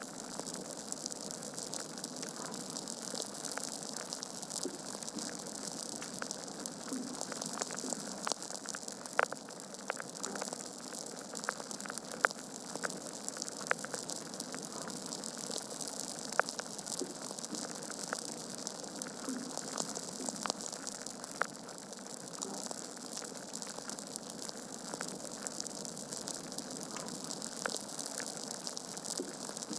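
Wood fire burning in a fireplace: a steady hiss with irregular crackles and sharp pops from the logs, a few much louder than the rest.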